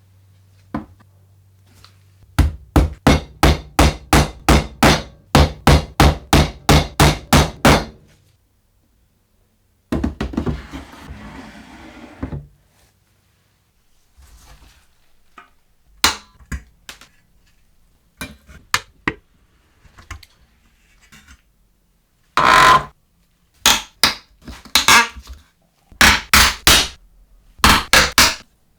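Hammering: a steady run of sharp blows, about three a second, for several seconds. Then a stretch of scraping or rubbing, scattered single knocks, and near the end more groups of loud strikes.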